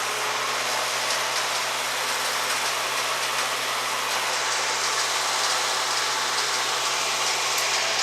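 Wood chipper's engine running steadily, a constant mechanical drone with a hiss over it.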